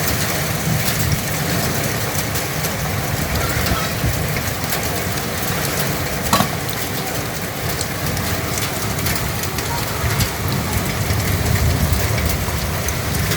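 Heavy rain pouring steadily, a dense hiss dotted with many sharp drop ticks, with one louder knock about six seconds in.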